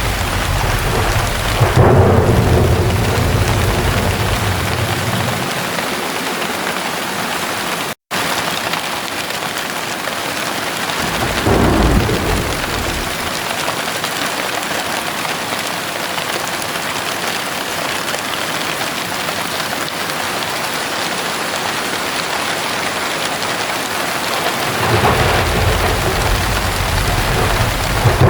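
Heavy rain falling steadily through a thunderstorm. A loud thunderclap comes about two seconds in and rolls into rumbling that dies away by about five seconds, a shorter clap follows around twelve seconds, and low rumbling builds again near the end. The sound cuts out for an instant about eight seconds in.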